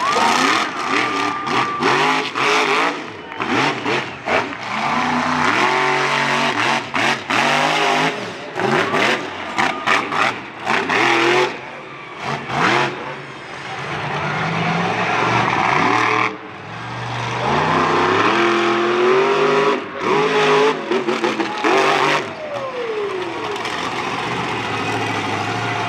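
Monster truck engine revving hard in repeated bursts, its pitch climbing and falling again and again and cutting off sharply as the throttle is chopped, with one longer climb about halfway through that ends abruptly.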